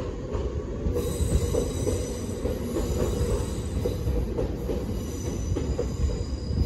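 Nagano Electric Railway 8500 series electric train pulling out of the station, with a steady low rumble and clattering over the rails. From about a second in, a high-pitched wheel squeal of several tones runs over it.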